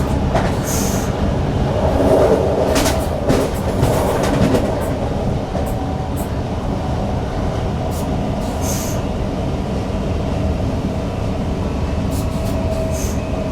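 Newag Impuls EN63 electric multiple unit running on the rail, heard in the driver's cab: a steady rumble with a cluster of sharp clicks and knocks a couple of seconds in.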